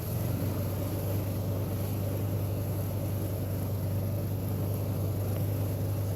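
Engine of a John Deere Gator utility vehicle running steadily while driving, a low hum with no revving.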